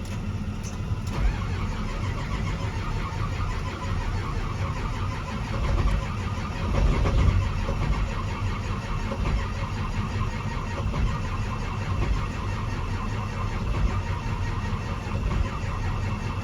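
Ford 6.0L Power Stroke V8 diesel being cranked over on its starter for a long stretch without starting, with a brief louder surge about seven seconds in. This is a no-start that the mechanic suspects comes from a failing fuel injection control module (FICM) giving low injector voltage.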